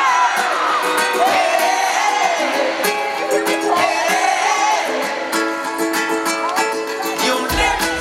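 Live band music led by plucked ukulele with a wavering vocal line over it. Bass and drums come in near the end.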